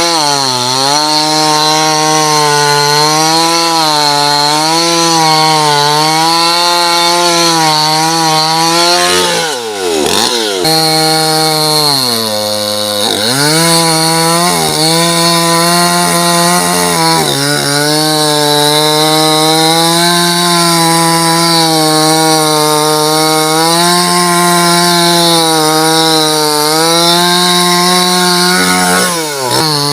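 Chainsaw engine running at high revs while cutting wood, its pitch wavering as the chain loads up. The revs drop sharply and pick up again about ten seconds in, again around thirteen seconds, and once more near the end.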